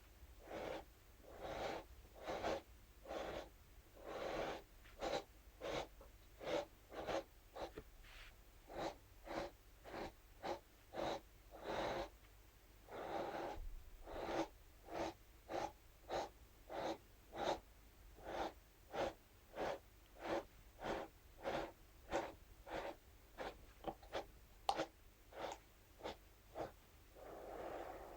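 Scalp massage brush scratched across a surface in short, repeated strokes, about two a second.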